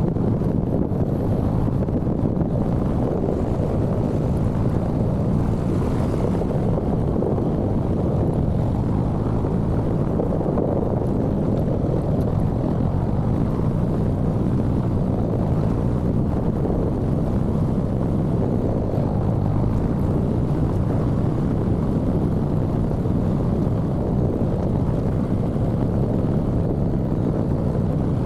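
Steady low rumble of a motorcycle on the move: engine noise mixed with wind buffeting the microphone, unbroken throughout.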